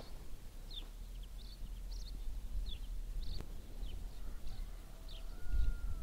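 Small birds chirping outdoors, short high calls repeated every half second or so, over a low rumble that grows louder near the end.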